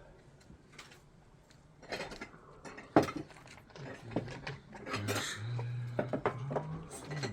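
Dishes and cutlery clinking in a few scattered knocks, the loudest about three seconds in. A low steady hum comes in over the last couple of seconds.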